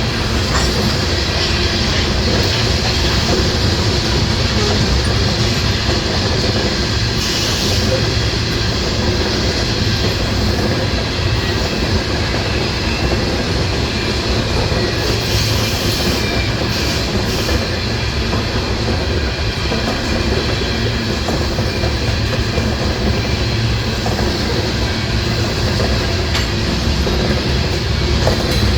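Loaded coal gondolas rolling past, a steady heavy rumble with wheels clacking over the rail joints. Brief high wheel squeals come in about a quarter of the way in and again around the middle.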